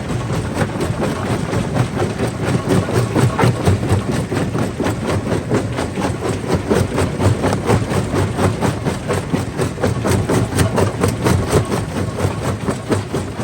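Stone crusher running, a steady heavy engine drone under a dense, continuous clatter of rock being knocked and broken.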